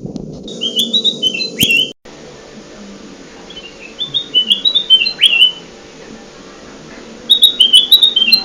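Kutilang emas (a bulbul) singing in a lure-call recording: three repeated phrases about three seconds apart. Each phrase is a quick run of stepped, falling notes that ends in a sharper downward-swept note.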